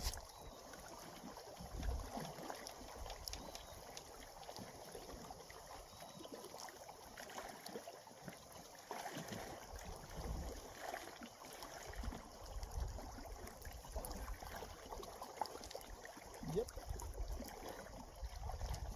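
Gentle water lapping and sloshing, with low swells of wind rumbling on the microphone and scattered small knocks and clicks.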